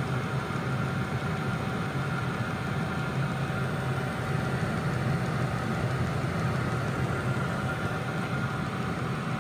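Diesel air heater running steadily once lit: an even blower hum with a few steady whining tones over a rush of air.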